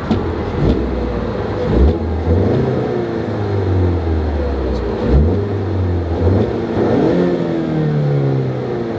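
2016 Ford Mustang EcoBoost's 2.3-litre turbocharged inline-four engine revved several times while standing still, the pitch rising and falling with each blip of the throttle and reaching around 5,000 rpm near the end.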